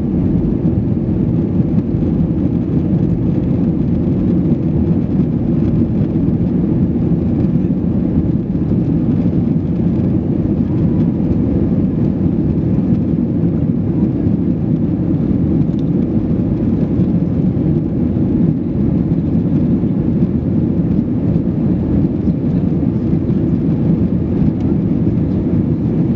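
Steady low rumble of an Airbus A320's jet engines and rushing air heard inside the passenger cabin during take-off, unchanging throughout.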